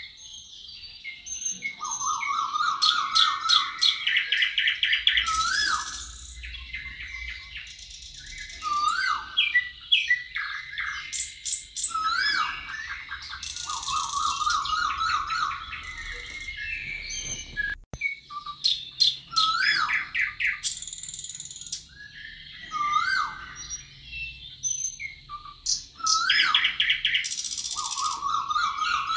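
Several songbirds singing and chirping, with overlapping trills and high buzzy phrases that repeat every few seconds.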